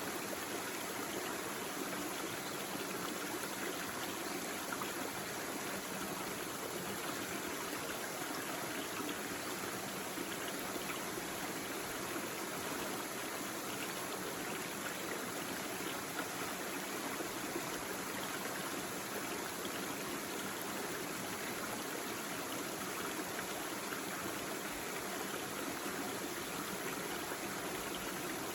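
A small stream babbling and trickling over stones, a steady, even water sound with no change.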